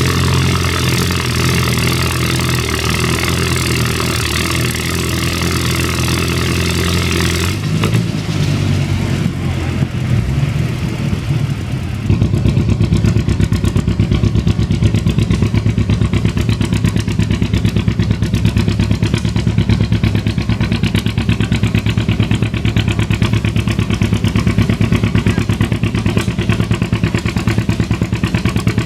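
Antique farm tractor engine running loud and steady. About eight seconds in the sound changes, and from about twelve seconds a louder engine takes over with a fast, even firing beat.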